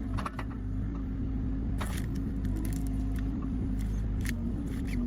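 Engine of a heavy hydraulic stump-removal machine running steadily at a low hum, with scattered short cracks and knocks.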